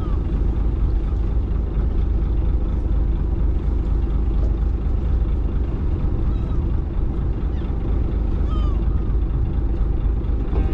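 A fishing boat's engine running steadily, a constant low rumble.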